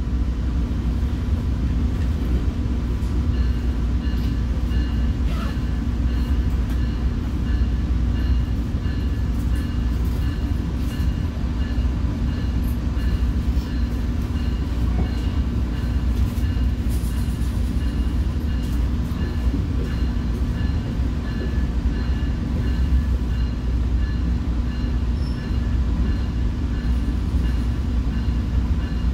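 Commuter train running steadily along the rails, heard from inside a passenger car: a continuous low rumble with faint high-pitched tones that pulse on and off throughout.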